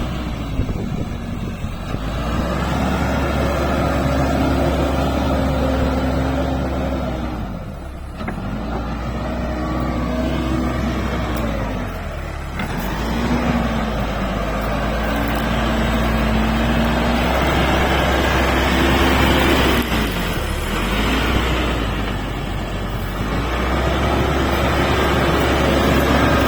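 Backhoe loader's diesel engine running hard and revving up and down: its pitch climbs and holds for several seconds, then drops back, several times over, as the machine works its hydraulics digging.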